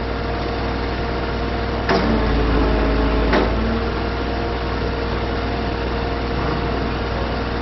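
A heavy truck's diesel engine idling steadily, with two sharp knocks about two and three and a half seconds in.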